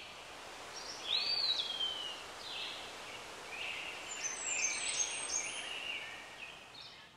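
Forest ambience: birds chirping and calling over a steady background hiss, the loudest a call about a second in that slides down in pitch.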